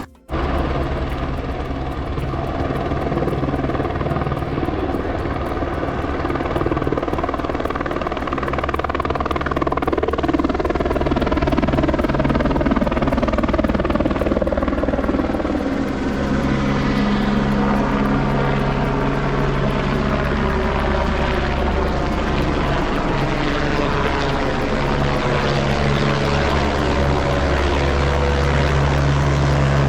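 An engine running steadily with a low, even hum, its higher sound slowly sweeping and shifting as if the source is moving.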